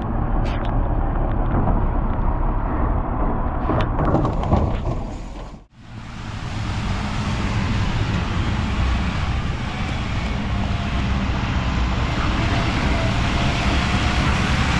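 Mack LR garbage truck running, its engine rumbling under a steady hiss of rain. The sound drops away briefly about six seconds in, then picks up again at the same steady level.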